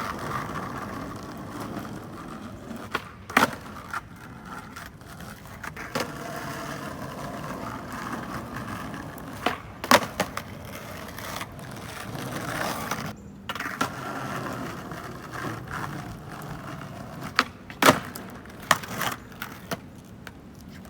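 Skateboard wheels rolling on flat pavement, broken by several sharp wooden cracks of the board popping and slapping down as flat ground tricks are tried.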